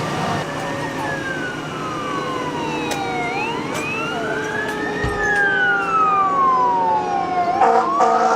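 Emergency vehicle sirens wailing, slowly rising and falling in pitch, with a second, higher siren sweeping alongside. Near the end, a few short horn blasts cut in.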